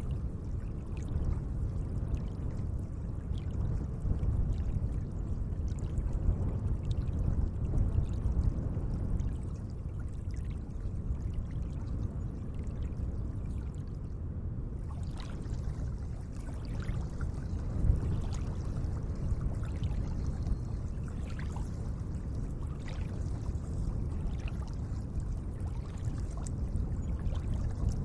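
Gentle lake water: a steady low wash with many small splashes and drips over it.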